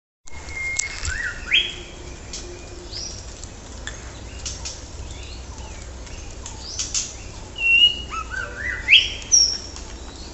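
Several wild birds calling, starting a moment in: sharp chirps and rising whistled notes, loudest around two seconds in and again near the end, over a low steady rumble.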